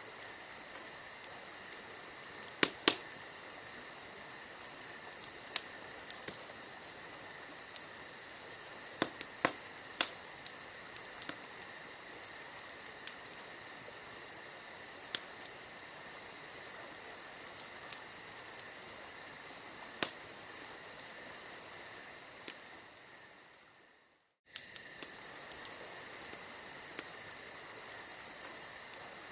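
Wood campfire crackling with scattered sharp pops, over a steady high chorus of crickets. About three-quarters of the way through, everything fades to silence for a moment, then comes back abruptly.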